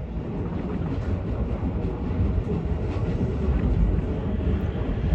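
Ichibata Electric Railway train running, heard from inside the carriage: a steady low rumble of the car moving along the track.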